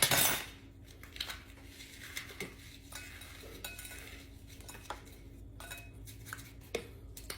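Spoon clinking and scraping against a bowl while food is scooped and mixed, with a louder scrape at the very start, then scattered light clinks.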